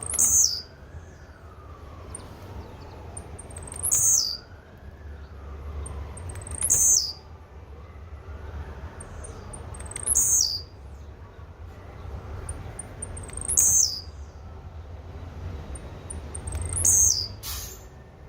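Blue-black grassquit (tiziu) calling: six short, sharp, high calls about every three to three and a half seconds, each falling in pitch and led in by a few faint high ticks.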